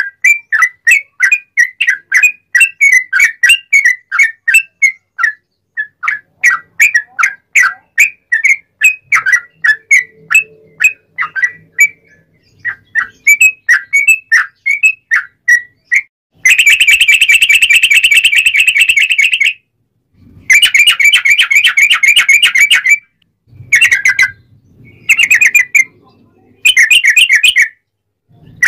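Sooty-headed bulbul (trucuk) singing loudly: for about sixteen seconds a fast run of short, clear whistled notes repeated several times a second, then long dense rolling trills in bouts of one to three seconds with short breaks between them.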